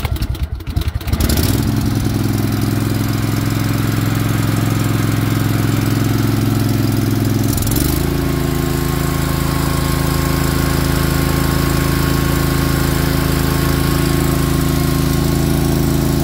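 Kohler Command CV18S 18.5 hp V-twin engine on a 1998 Craftsman GT garden tractor cranking on the starter with the choke on and catching about a second in. It then runs steadily at a low speed and steps up to a higher steady speed about halfway through, cold and warming up.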